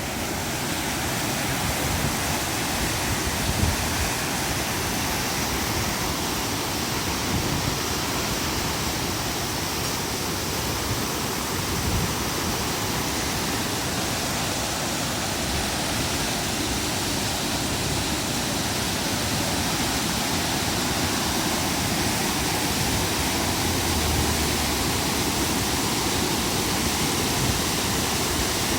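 Steady roar of a storm-swollen river rushing in flood under a typhoon.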